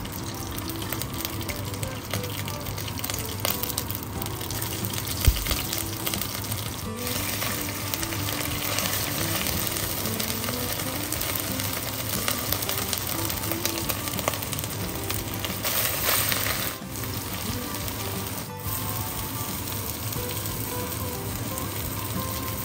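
Ginger-garlic paste and whole spices frying in hot coconut oil in a clay pot: a steady sizzle, with one sharp knock about five seconds in and the sizzle briefly louder about sixteen seconds in.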